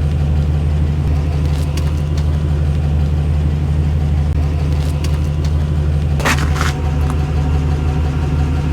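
A motor running with a steady low drone, with two short hisses about six seconds in.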